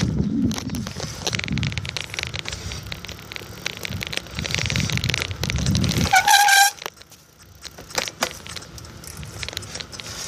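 A bicycle rattling and rumbling over a rough trail, with a short, wavering high squeal just past six seconds in, after which the ride goes quieter with only scattered clicks.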